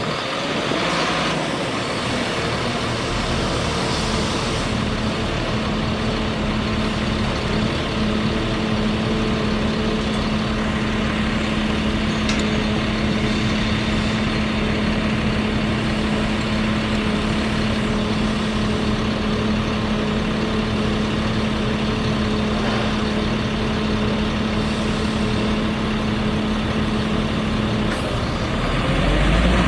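Bucket truck's engine running at a steady speed, with a steady whine over the engine note. The pitch climbs near the end.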